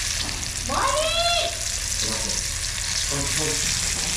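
Small birds deep-frying in hot oil: a steady sizzle and crackle of the oil, with a brief voice cutting in about a second in.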